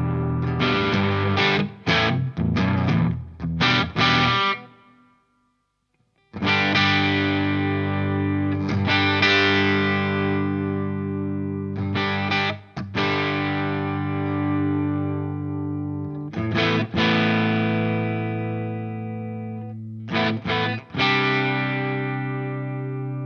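Electric guitar played through a DOD Looking Glass Class A FET overdrive pedal, giving an overdriven tone. Short choppy chord strums come first, then a brief silence about five seconds in, then long ringing chords with a few quick changes.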